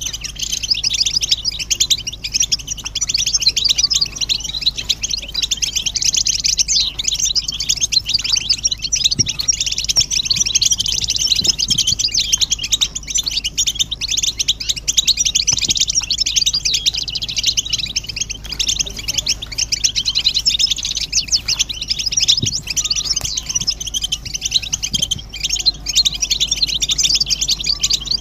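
A group of European goldfinches twittering and chattering together: a dense, unbroken stream of rapid, high, overlapping chirps, the excited group calls used to stir a silent male goldfinch into song.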